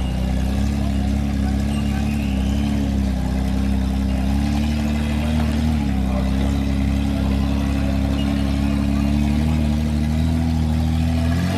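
An engine running steadily at a fairly constant speed, with slight dips and recoveries in pitch about a second in and again about six seconds in.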